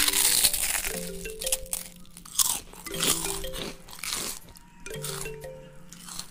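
A person crunching and chewing raw vegetables close to the microphone, loudest at the start and again in several bursts through the middle, over light melodic background music.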